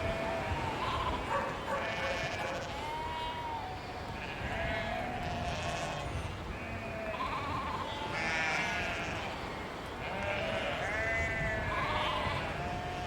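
A flock of sheep bleating, with many overlapping baas at different pitches that come one after another without a break, over a steady low background rumble.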